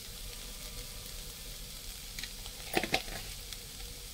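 Keema (minced meat) frying in a pan with a steady faint sizzle, broken by two sharp knocks close together about three seconds in.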